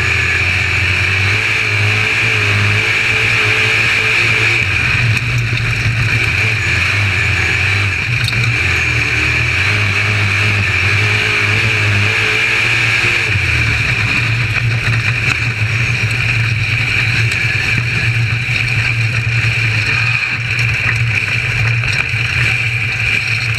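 UMP dirt modified's V8 engine running hard at racing speed, its pitch rising and dipping every few seconds as the throttle comes on and off, with a steady high hiss over it.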